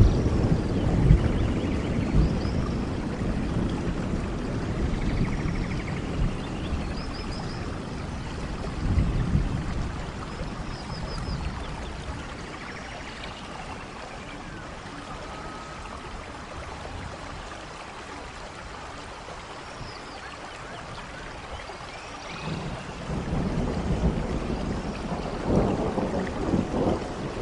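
Steady rain falling, a continuous hiss, with deep rumbles of thunder at the start that fade through the middle and swell again near the end. Faint, short, high chirps sound here and there over the rain.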